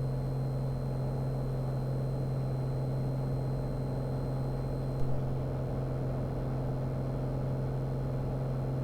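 Single-engine light airplane's engine at full power in the climb just after takeoff, a steady drone heard in the cockpit. One short click about five seconds in.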